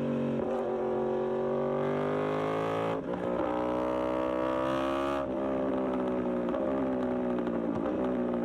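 Yamaha R1 inline-four engine and exhaust under load, climbing in pitch through the revs. The pitch drops sharply about three seconds in and again about five seconds in, the pattern of upshifts, then sinks slowly as the engine comes off the throttle.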